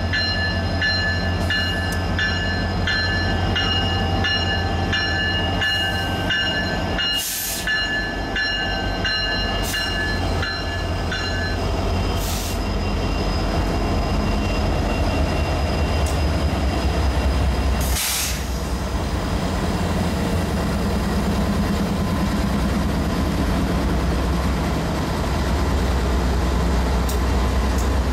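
Norfolk Southern freight train's diesel locomotives passing close: a steady deep engine rumble with the wheels ticking regularly over the rails. High steady ringing tones sound over it for about the first twelve seconds, then stop.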